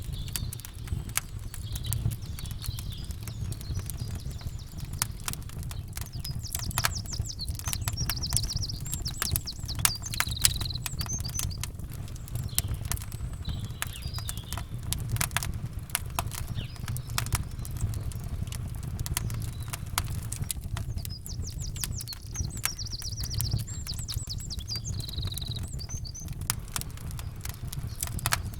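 Campfire crackling and popping in dense, irregular snaps over a steady low rumble, with songbirds chirping and trilling twice, about eight seconds in and again past twenty seconds.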